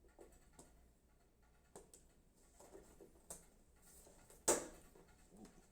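Scattered light clicks and taps from PC parts and hardware being handled during assembly, with one sharper click about four and a half seconds in.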